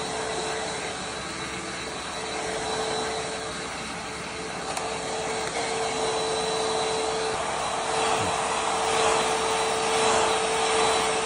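Hand-held hair dryer blowing steadily: a constant motor whine over rushing air, getting somewhat louder about eight seconds in.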